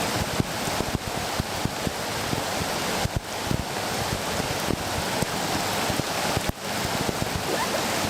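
River rapids rushing steadily, a dense continuous roar of white water, with many sharp ticks scattered through it.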